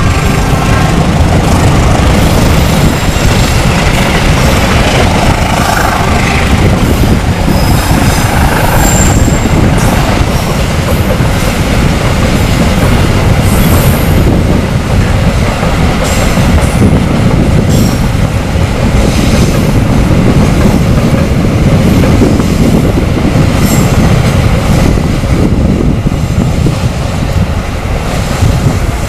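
Container freight train's wagons rolling past loudly, a steady rumble and clatter of steel wheels on rail, with a few brief faint squeals from the wheels.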